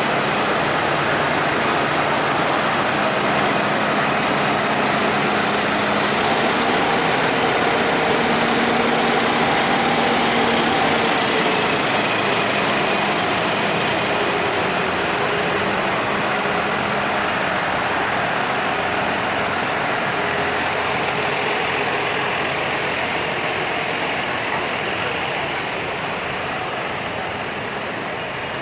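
Tractor engines running, with changing engine tones as different tractors go by; the sound eases off a little toward the end.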